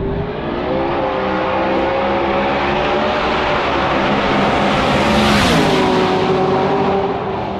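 A drag-racing car's engine at full throttle, climbing steadily in pitch as it accelerates down the strip. It passes about five and a half seconds in, where it is loudest and the pitch drops sharply, then carries on at the lower pitch.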